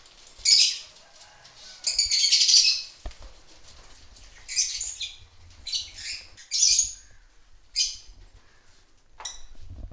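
A crowd of caged pet birds, small parrots, giving shrill squawks and chattering calls in about seven short loud bursts, with quieter pauses between them.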